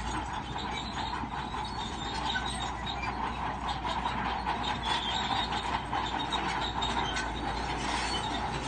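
Crawler bulldozer working, its steel tracks clanking and squealing over a steady running engine, with dense rapid clicks throughout.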